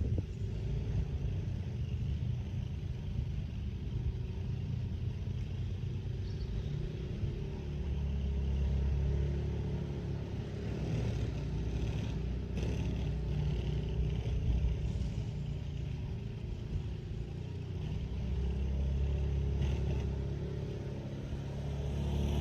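A motor vehicle's engine running steadily with a low rumble, swelling louder twice and again near the end, with a few faint clicks.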